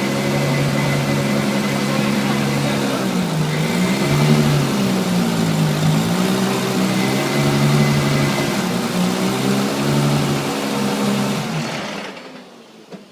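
Nissan GT-R's engine running through a Supersprint aftermarket exhaust, its pitch dipping and recovering a few times. The sound fades away near the end.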